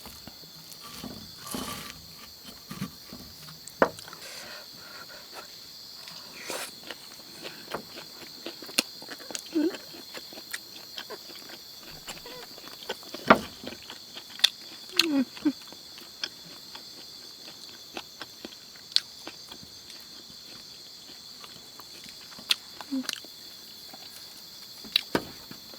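Steady high-pitched insect drone, with many scattered sharp clicks and knocks and a few short low squeaks.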